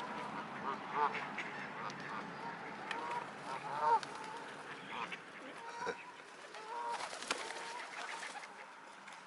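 A mixed flock of waterfowl calling, many short calls overlapping and scattered throughout.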